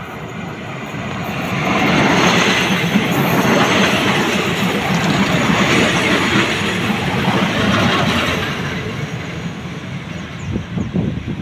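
State Railway of Thailand diesel railcar train arriving along the platform. The wheel and engine rumble and rattle build to a loud, steady passing noise for several seconds, then ease off. Near the end come sharp clacks of wheels over rail joints.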